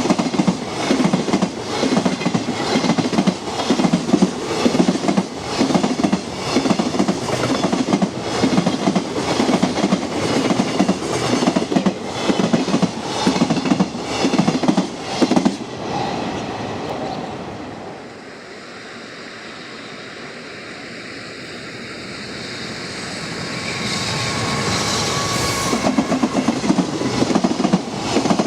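A freight train's wagons pass with a steady, rhythmic clickety-clack of wheels over the rail joints, which ends about halfway through. After a quieter stretch, a second freight train approaches and grows louder, with a thin steady whine over it, and its wheel beats start again near the end.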